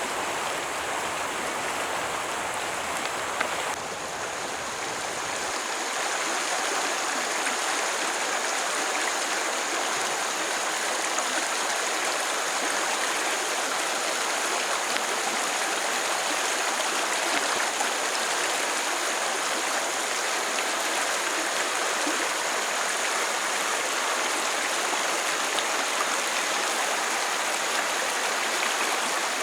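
Steady rushing of water from a flowing stream, an even hiss with no breaks, dipping briefly about four seconds in.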